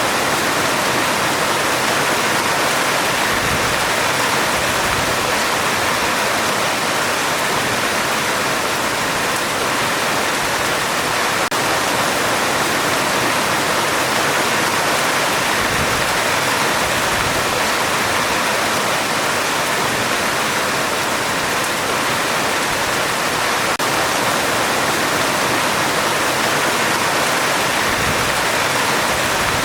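Heavy rain falling steadily on a metal roof: a dense, even hiss that does not let up.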